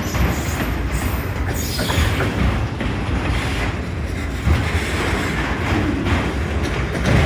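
Freight cars of a CSX train rolling past close by: a steady rumble with wheels clattering over the rail joints and a faint high wheel squeal now and then.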